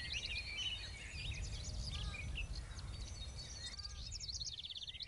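Several small birds chirping and trilling, short high calls overlapping one another, over a faint low rumble.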